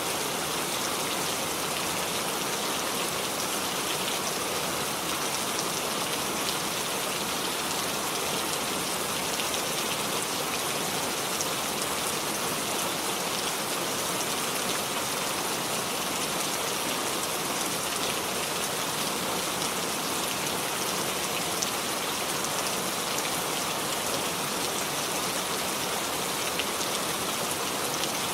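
Steady rain falling and pattering on surfaces, an even hiss of many fine drops with no let-up.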